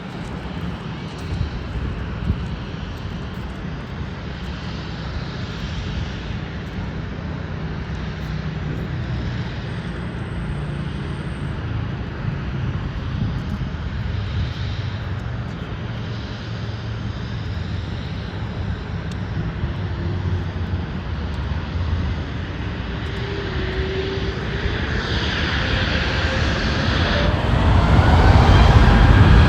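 Jet airliner engines rumbling steadily. A whine rises in pitch near the end as the sound grows louder.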